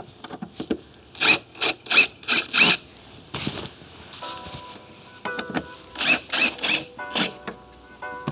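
A series of short, rasping tearing strokes, four in quick succession and then a few more, as material around the trolling-motor pedal is torn up. Background music with held notes comes in about four seconds in.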